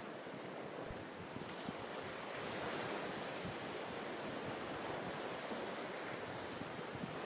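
Mediterranean sea waves washing onto the beach in a steady rush that swells a little about two seconds in, with wind buffeting the microphone.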